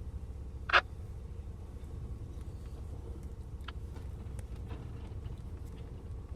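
A vehicle engine running steadily with a low rumble, and a single sharp knock about a second in, followed by a couple of faint ticks.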